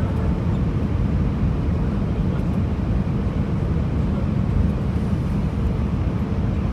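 Airbus A319 in flight on its landing approach: a steady, dense low rumble of engine and airflow noise with a faint steady hum above it.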